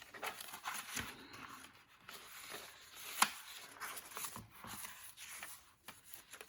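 Paper pages and card stock of a junk journal rustling and being handled, with light taps and one sharper click about three seconds in.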